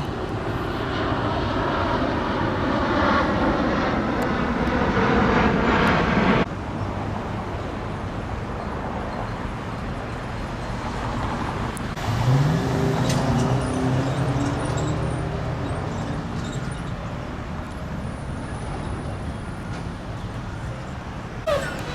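Street traffic: vehicle engines and tyre noise swelling and fading, with one engine rising in pitch as it accelerates about halfway through. The sound changes abruptly about six seconds in.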